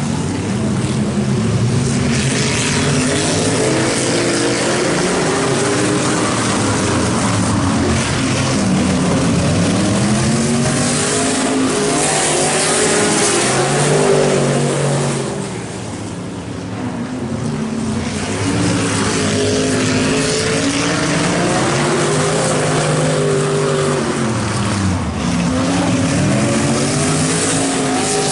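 Race truck engines running hard as a pack of trucks laps the track, engine pitch rising and falling again and again as they pass. The sound eases off for a couple of seconds about halfway through, then builds again.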